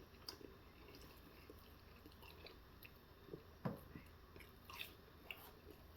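Faint close-up chewing of food, with soft scattered mouth clicks and a couple of slightly louder smacks.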